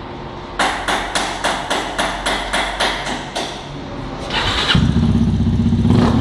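Yamaha Ténéré 250's single-cylinder four-stroke engine turned over on its starter, with even pulses about three or four a second for nearly three seconds. A little later it catches and settles into a loud, steady, pulsing idle through its Roncar Coyote aftermarket exhaust.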